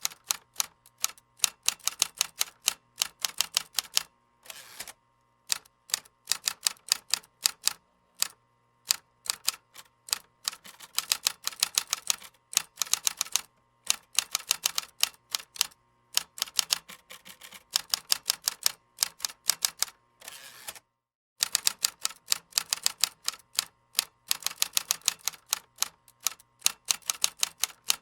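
Computer keyboard typing: rapid runs of key clicks with short pauses between bursts, the longest pause lasting about a second, about two-thirds of the way through.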